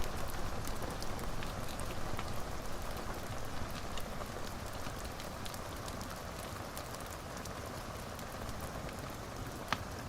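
Steady rain with scattered sharp ticks and crackles, and one louder snap near the end.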